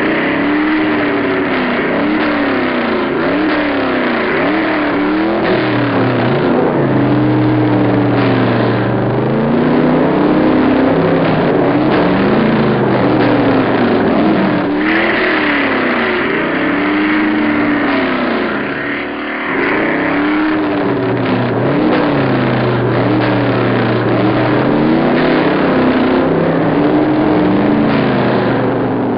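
Monster truck engines revving over and over, the pitch climbing and falling every couple of seconds above a steady lower engine drone.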